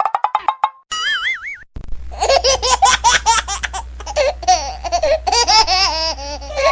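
High-pitched laughter sound effect, a run of quick giggling pulses lasting about five seconds and ending abruptly. It follows a brief cartoon effect: fast rising pulses, then a wobbling whistle-like tone.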